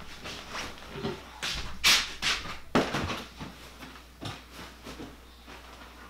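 Blankets and bedding rustling and shuffling as a child climbs into bed, a string of short, soft swishes.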